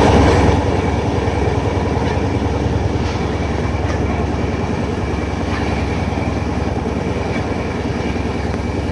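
A moving train: a steady low rumble with a thin, steady high whine and a few faint clicks.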